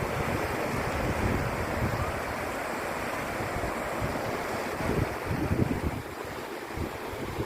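Sea surf washing at the shore with wind buffeting the microphone, in a few stronger gusts about five to six seconds in.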